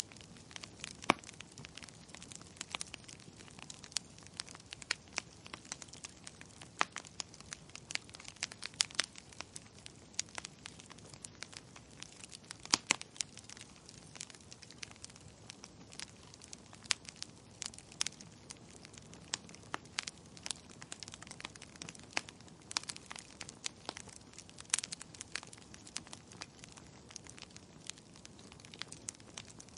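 Wood fire crackling in a fireplace: irregular sharp pops and snaps, several a second, over a steady soft hiss.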